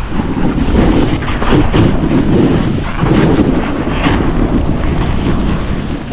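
Snowboard riding through deep snow: a loud, uneven rumble and hiss of the board pushing and scraping through the snow, with wind buffeting the microphone, easing off a little near the end.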